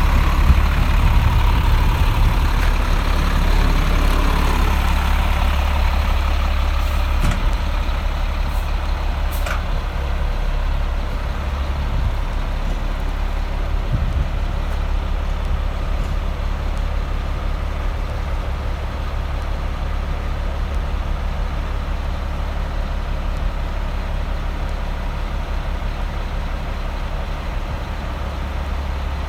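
Diesel engine of a Freightliner M2 106 medium-duty truck running steadily, a little louder in the first few seconds before settling.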